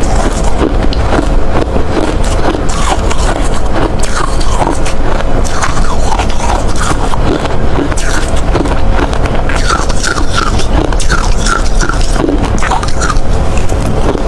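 A person biting and chewing ice close to the microphone: loud, crunchy, with a dense, unbroken run of cracks and crunches.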